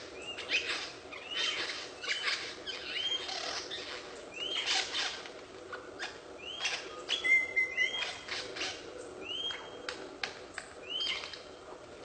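A bird calling repeatedly with short arched chirps, about one a second at uneven intervals, with one brief steady whistled note about seven seconds in.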